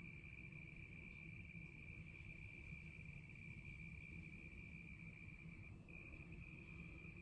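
Faint, steady, high-pitched insect trill, unbroken throughout, over a low even background rumble.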